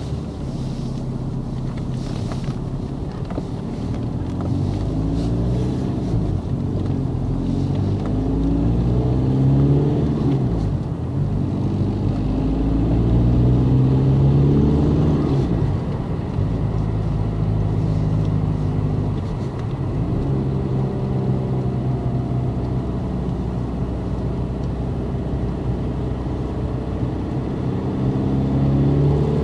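Audi A3 1.9 TDI four-cylinder turbodiesel heard from inside the cabin, accelerating hard through the gears. The engine note climbs steadily, then drops abruptly at several upshifts, about 11, 16 and 20 seconds in, and climbs more slowly in the top gear.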